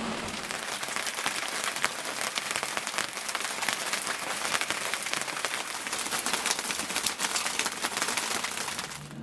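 Cold, heavy rain beating on a sailboat's deck and cabin top: a dense, steady patter of countless small drops that sounds like an icy car wash. It cuts off abruptly near the end.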